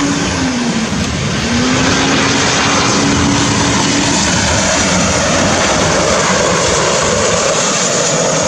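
Jet airliner passing low overhead on final approach: a loud, steady engine roar with a low hum that dips in pitch about a second in and fades out about four seconds in.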